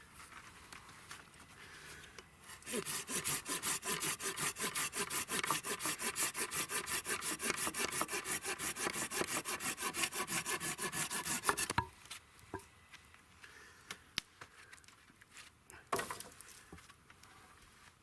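Hand saw cutting wood with quick, even back-and-forth strokes for about nine seconds, stopping suddenly; a few light knocks follow.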